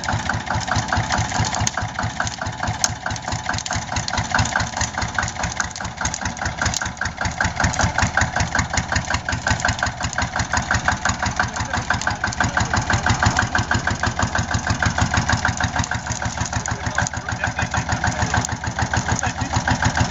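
Allgaier tractor's diesel engine running steadily at idle with an even, pulsing beat.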